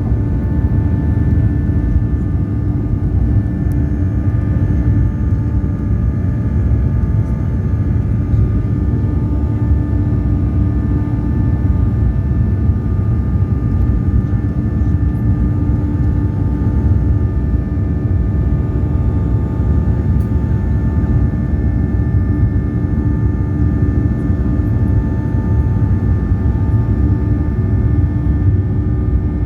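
Boeing 737-800's CFM56-7B jet engines running at steady power, heard from inside the cabin: a loud, even rumble with several held whining tones.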